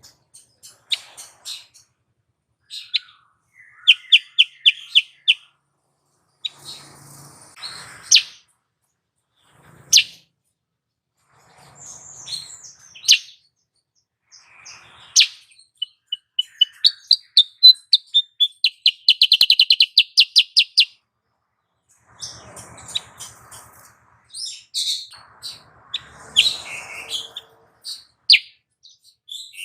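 Female kutilang sutra bulbul calling: short, sharp chirps and downslurred notes with pauses between them, broken twice by fast trilled runs of chirps, the longer one about two thirds of the way through.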